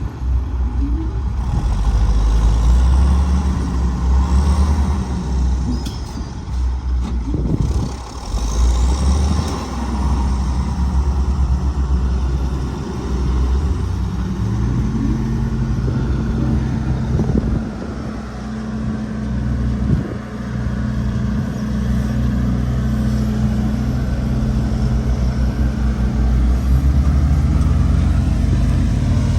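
Diesel engine of a Sakai vibratory road roller running steadily, with a deep hum; about halfway through the engine note settles into a steadier, slightly higher drone.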